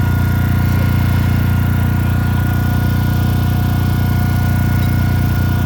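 Core drill motor running steadily under load, a constant low hum with a few steady higher whine tones, as it cuts through masonry.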